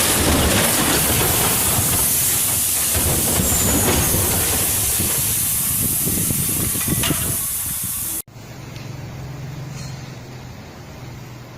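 Loud steady rushing hiss of vehicle noise picked up by a dashcam, which cuts off abruptly about eight seconds in. A much quieter low engine hum follows.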